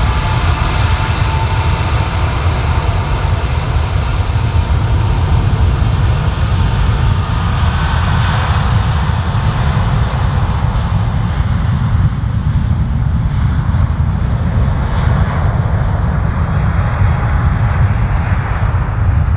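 Jet airliner engines running loud and close: a heavy, steady rumble with a high whine that rises at the start and then holds, the whine fading away in the second half.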